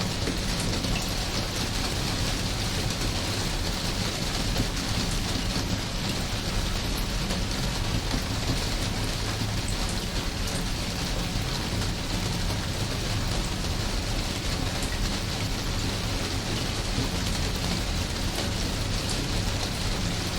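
Steady rain falling as an even, unbroken hiss with a low rumble underneath.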